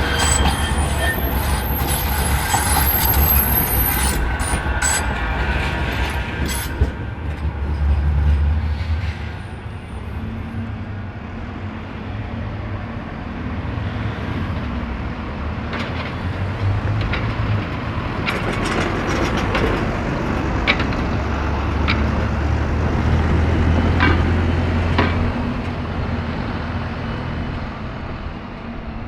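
Metrolink tram running on street track, its wheels squealing on the rails for the first several seconds. A steady low rumble follows, with scattered clicks.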